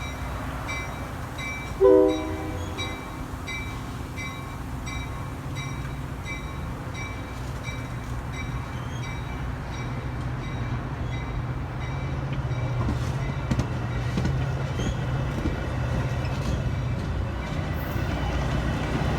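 A railroad warning bell dinging about one and a half times a second, a short train horn toot about two seconds in, and the low rumble of a train that slowly grows louder.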